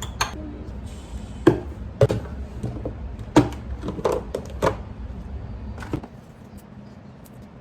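Kitchen items handled on a counter: five or six sharp, irregular knocks and clacks. A low hum under them stops about six seconds in.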